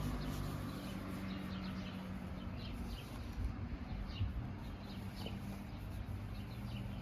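Small birds chirping in quick, scattered notes over a steady low hum.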